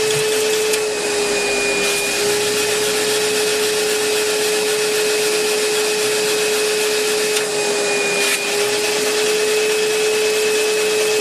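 Electric blower motor whining steadily over a rush of air, feeding compressed air to a wooden double-acting model steam engine. Its pitch sags slightly twice, about a second in and again near the end.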